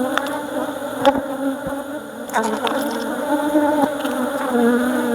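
Honeybees buzzing loudly and steadily in a crowd around the microphone at an opened hive, with a few short clicks.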